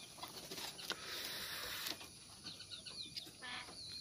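Faint ambience of short, high chirps from small birds in the background, several in quick succession in the second half, with a soft rustle about a second in and a single light click.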